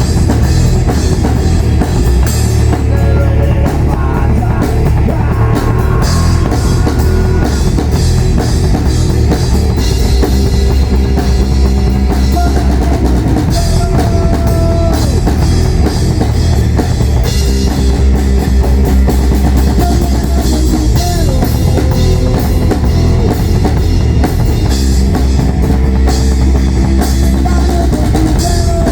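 Rock music played by a band: drum kit with a heavy bass drum, bass and guitar, loud and continuous.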